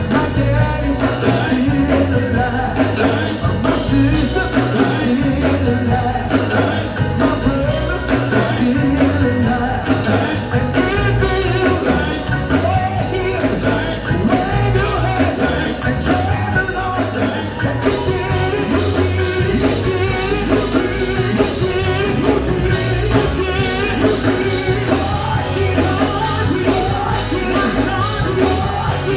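A live gospel band and singers performing a song, with sung vocal lines over a steady beat.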